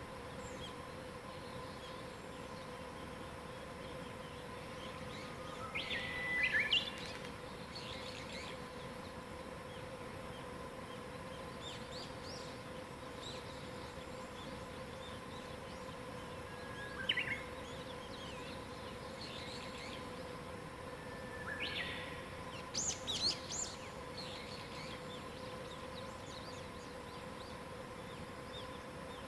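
Wild birds singing. One bird repeats a phrase about four times, each a short held whistle jumping up into quick higher notes, with fainter chirps between. A faint steady hum and hiss run underneath.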